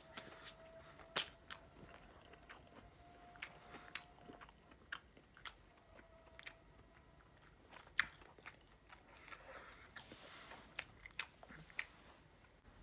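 Faint close-up eating sounds: a person biting and chewing breaded chicken strips, with scattered, irregular wet mouth clicks and smacks.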